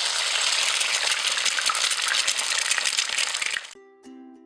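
Food deep-frying in hot oil: a steady crackling sizzle that cuts off abruptly about three and a half seconds in, followed by a few softly ringing plucked-string notes.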